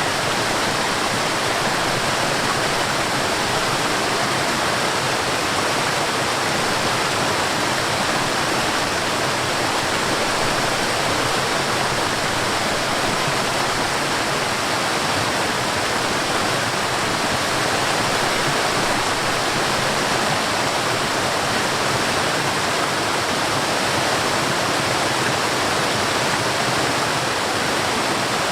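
Forest waterfall: a steady rush of falling water, even and unbroken throughout.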